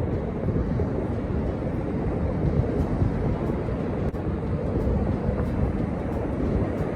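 Steady low rumble of wind buffeting the microphone, mixed with ocean surf.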